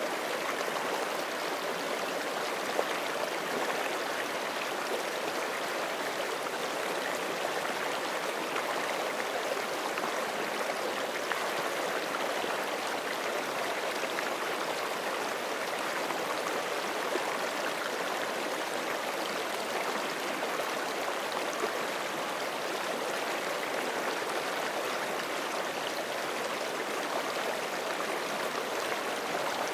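Forest creek flowing steadily over rocks, a continuous rushing and babbling of water with small splashes.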